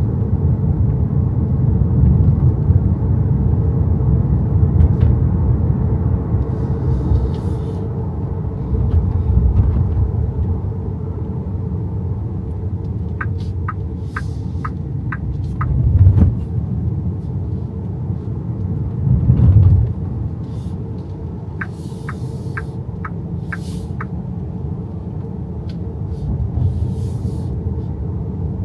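Road and tyre rumble heard inside the cabin of an XPENG G6 electric SUV on the move, with two dull thumps just past the middle. Two runs of about six short, evenly spaced ticks, each run lasting about two seconds, come a little before the middle and again later.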